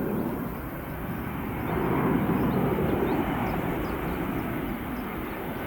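Airliner passing overhead: a steady, noisy engine rumble that swells about two seconds in.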